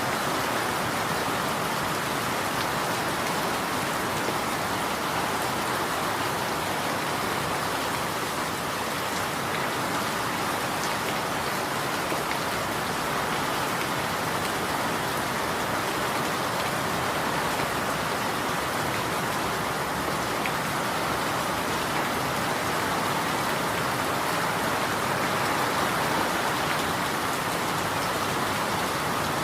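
Steady rain falling, an even hiss of drops that holds constant throughout.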